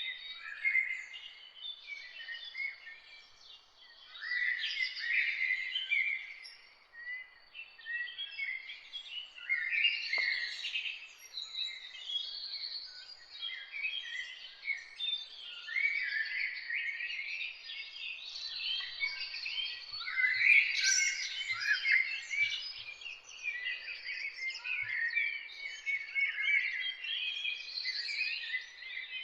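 Several songbirds singing and chirping at once, a dense chorus of overlapping trills and short calls over a faint background hiss.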